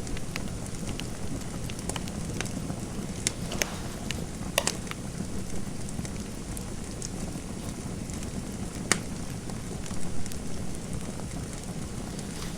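Fireplace fire crackling: a steady hiss and rumble with scattered sharp pops, the loudest a little past four seconds in and again about nine seconds in.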